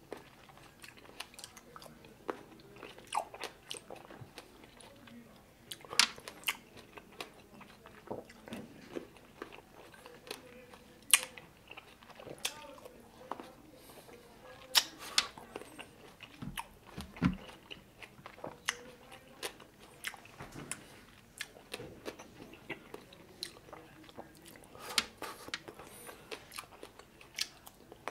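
A person eating red grapes: irregular sharp crunches as the grapes are bitten, with wet chewing in between.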